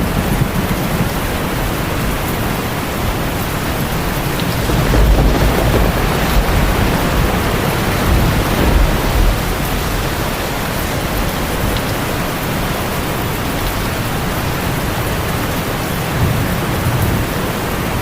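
Steady rain falling, with low rumbles of thunder swelling up a few seconds in and again about halfway through.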